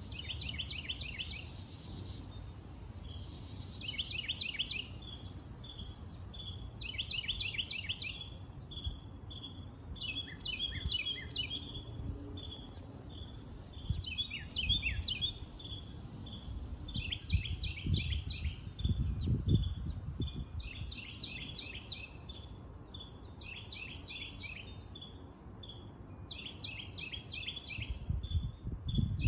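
A songbird singing the same short phrase over and over, a quick run of high falling notes about every two to three seconds, with single short chirps between. A low rumble rises briefly about two-thirds of the way through.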